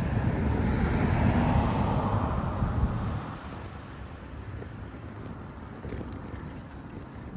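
Riding-along street noise: a steady rush of wind and traffic, louder for about the first three seconds, then settling to a quieter hiss.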